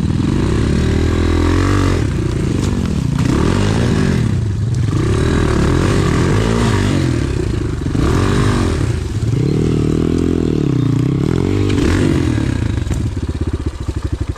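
Enduro pit bike engine revving up and dropping back again and again, the rises and falls coming every second or two as the bike is ridden along a rough forest trail.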